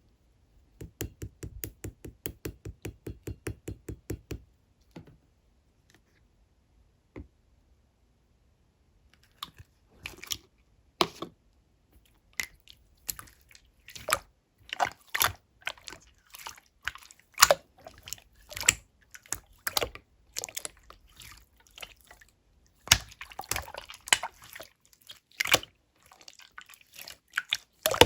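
Clear slime being played with by hand: a quick even run of wet clicks, about seven a second, then after a pause, irregular pops and squelches as it is pressed and stretched and air pockets burst.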